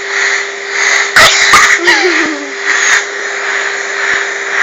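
Vacuum cleaner running with a steady motor hum and a rushing airflow that swells and fades as the nozzle is held against the face. Two sharp knocks come about a second in, and a short voice sound about two seconds in.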